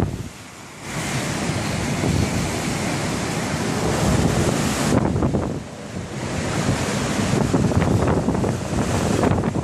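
Typhoon-force wind gusting hard against a smartphone's microphone. A strong gust builds about a second in, eases briefly a little past the middle, then surges again.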